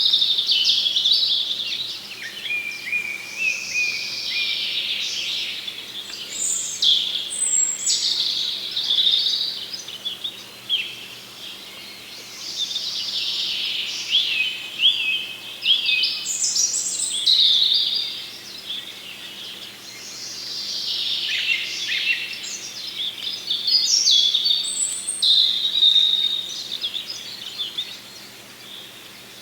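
Small songbirds chirping and twittering in a busy, overlapping chorus of quick high calls and trills, easing off briefly about halfway through and again near the end.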